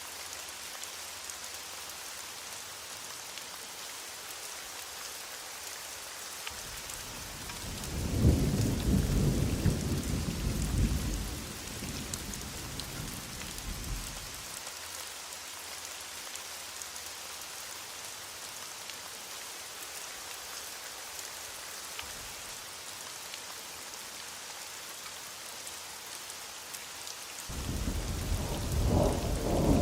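Steady heavy rain hissing, with two rolls of thunder: one swells about a quarter of the way in and rumbles for several seconds before fading, and another begins near the end.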